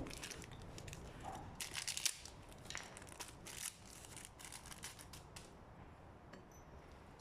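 Rustling, crinkling and light clicks of hands handling small parts and packaging at a workbench, dying down about five and a half seconds in.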